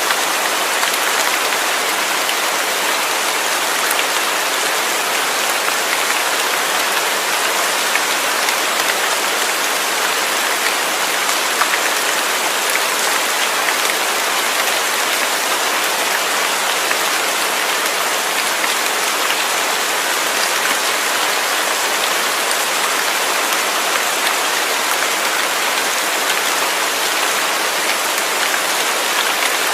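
Steady rain falling: a dense, even hiss with faint scattered drop ticks, unchanging throughout.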